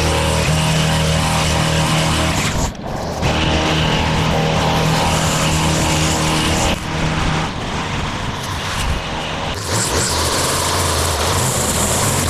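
A motor engine running steadily at a constant pitch, breaking off and resuming with slight changes about three, seven and ten seconds in.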